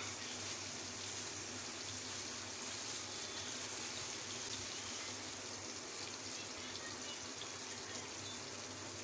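Chopped onions and tomatoes sizzling steadily in ghee in a frying pan on a gas stove.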